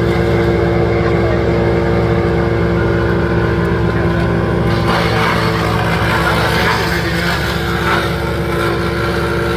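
A large engine running steadily with a constant drone, with some rougher noise rising over it for a few seconds in the middle.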